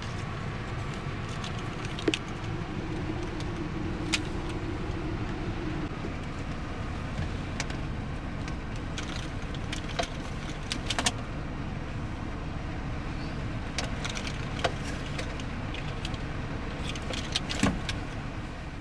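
Steady low rumble with sharp clicks and taps scattered through it, fading out near the end.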